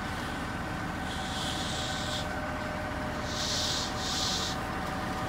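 Tools scraping across wet concrete, three strokes with the first and longest about a second in, over a steady engine drone.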